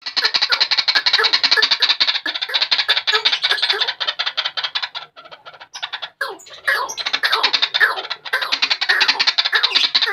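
White-breasted waterhen calling: long runs of fast, rapidly repeated harsh notes, broken by a pause of about a second and a half around halfway.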